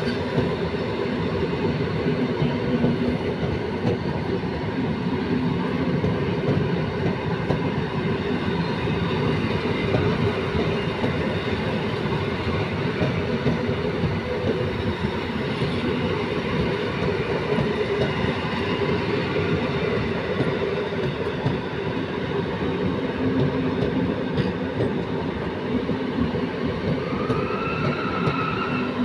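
Withdrawn EN57 electric multiple units, towed dead by a locomotive on their way to scrap, rolling past at speed: a steady wheel-on-rail rumble with a fast clatter of the wheels and coach bodies.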